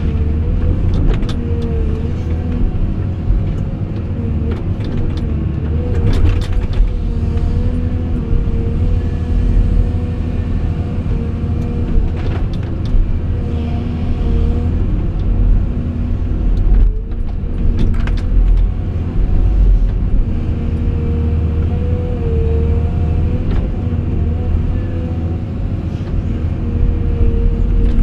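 Caterpillar 349E excavator running: a steady, loud diesel rumble with a steady whine over it that wavers slightly now and then, and a few scattered knocks.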